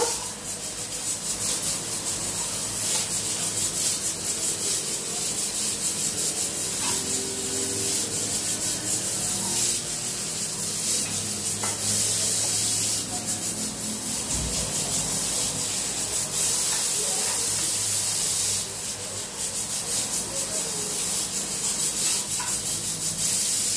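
Calamari frying in hot oil in a pan: a steady sizzle full of small crackles, with a spatula scraping and turning the pieces in the pan.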